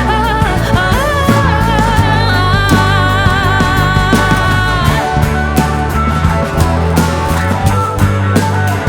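Live indie band playing an instrumental passage of the song, with drums and bass throughout and a held, wavering melodic line over them that stops about five seconds in.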